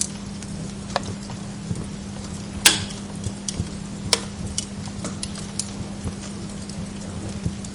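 Wood log fire in a fireplace crackling, with irregular sharp pops, the loudest about a third of the way in and another strong one just past halfway, over a steady low hum.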